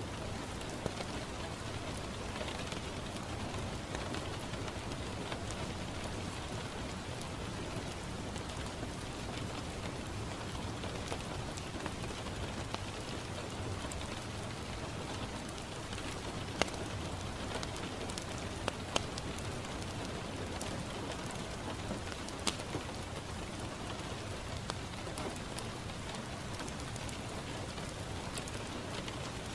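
Steady rain pattering on a window pane, with the occasional sharp pop of a crackling wood fire; the loudest pops come a little after halfway through.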